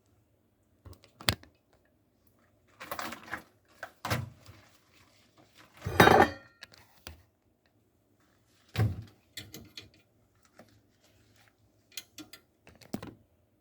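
Dishes and kitchenware being handled and set down: a string of separate clinks and knocks, the loudest about six seconds in.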